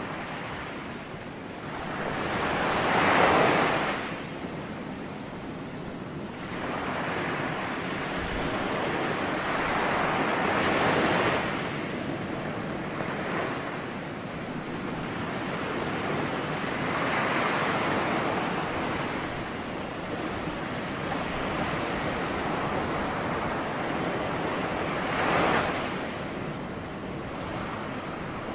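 Ocean surf: waves breaking and washing in over a steady hiss, swelling four times about seven seconds apart, the first swell the loudest.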